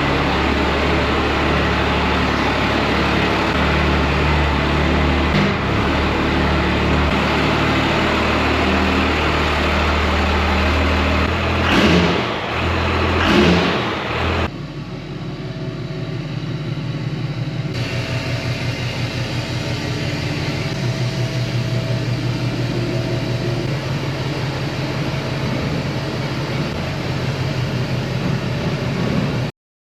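Pickup truck engine running in a garage, with two brief louder bursts about twelve and thirteen seconds in. After a change partway through, it settles into a lower, pulsing run, and the sound cuts off suddenly near the end.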